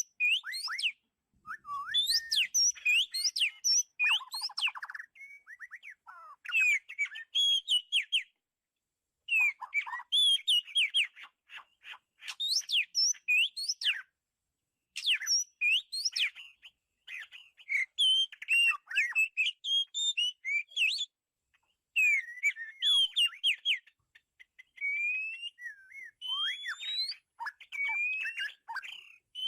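Oriental magpie-robin singing: phrases of quick, varied whistles and rising slurred notes, coming in bursts of a few seconds with short pauses between them.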